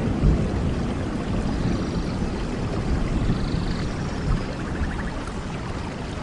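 Steady rain ambience: a continuous wash of noise, heaviest in the low end, with no break.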